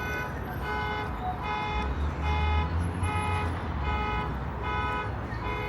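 An electronic warning beeper sounding a short tone about every 0.8 seconds, steady and evenly spaced, over street traffic, with a vehicle's low rumble rising in the middle.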